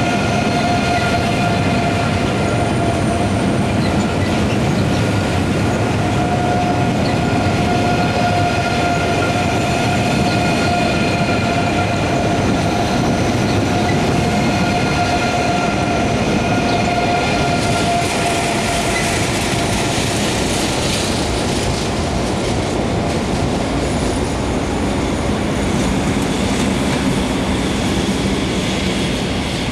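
ICE high-speed train rolling past, a steady loud rumble of wheels on rails with a steady high tone over it. The tone fades in the last third.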